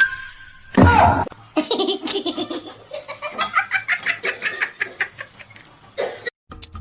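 A person laughing hard in rapid repeated bursts, after a short loud cry that falls in pitch about a second in.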